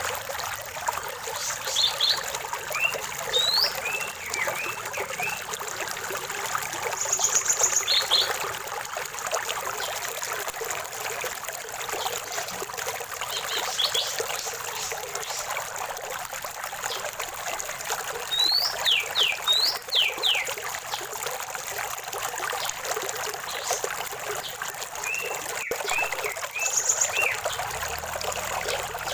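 Water trickling and splashing steadily in a small stream, with birds singing short chirps and calls scattered over it, a few of them quick falling notes.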